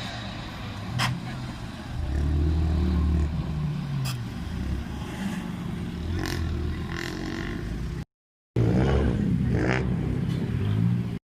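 Car engines revving and accelerating, getting louder about two seconds in, with a few sharp clicks. The sound drops out completely for half a second about eight seconds in.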